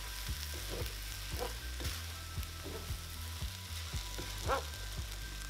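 Fried rice sizzling softly in a non-stick skillet as a wooden spatula stirs and scrapes it, with short irregular knocks of the spatula against the pan a few times a second.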